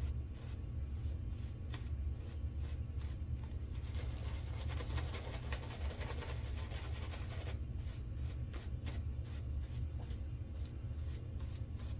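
Shaving brush working mentholated shaving soap into a lather: soft wet swishing strokes about three a second, with a stretch of faster continuous swirling in the middle.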